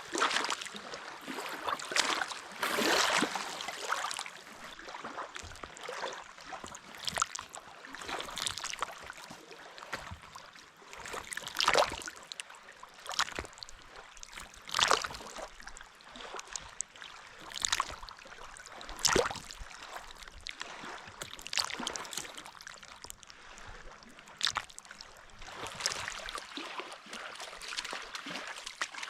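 Water lapping and splashing, in irregular small splashes every second or two over a steady watery hiss.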